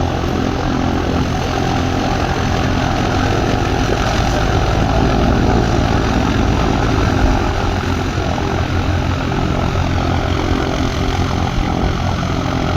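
Light propeller aircraft's piston engine running steadily on the ground as the plane waits to taxi, a steady low drone with no change in pitch.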